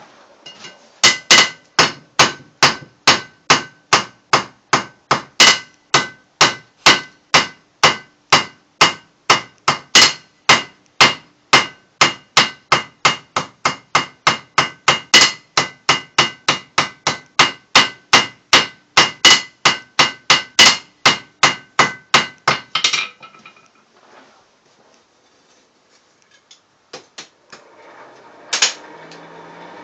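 A hand hammer strikes hot steel on a blacksmith's anvil of about 110 pounds, a steady run of about three blows a second with the anvil ringing under each blow. The hammering stops about 23 seconds in, and a single sharp clank comes near the end.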